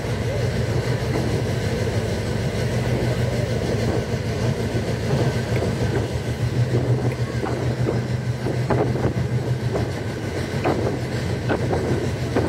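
Passenger train running along the track, heard from inside the carriage: a steady low rumble from the wheels on the rails, with scattered sharp clicks in the second half.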